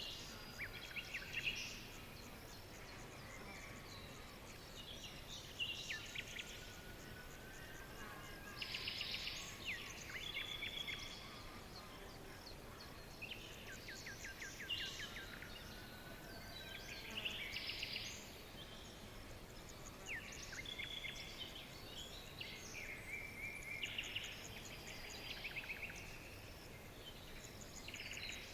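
Birds singing: bursts of rapid trills, chirps and short whistles every few seconds, over a steady faint background hiss.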